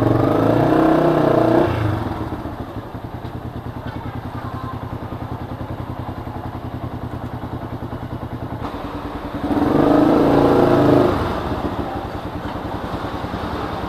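Geared motorcycle engine idling with a steady, even pulse. It is throttled up briefly twice: once at the start and again about ten seconds in.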